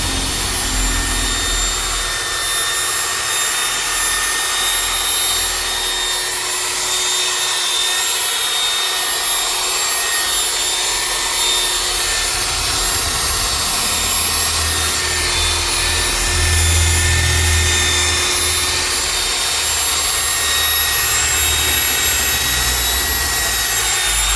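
Electric car polisher running steadily on the paint with cutting compound, a constant motor whine over a hiss of the pad rubbing the surface, winding down at the very end.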